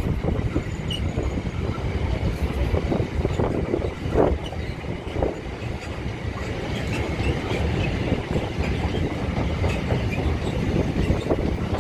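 Freight train wagons rolling past at speed: a steady rumble of wheels on the rails with scattered knocks over the track, one louder about four seconds in.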